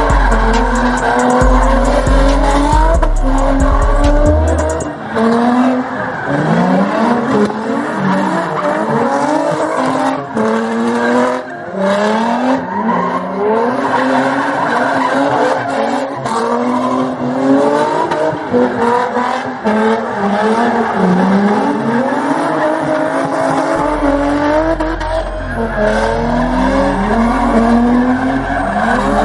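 Car engine revving up and down over and over with tires squealing and skidding, as in donuts or a burnout, with deep music bass thumping at the start and near the end.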